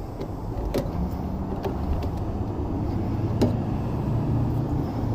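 Truck engine running with a steady low drone, with a few short clicks over it and a louder click about three and a half seconds in.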